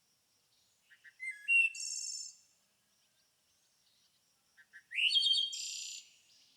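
A songbird singing two short phrases a few seconds apart, each a few quick notes and a rising whistle that run into a high trill.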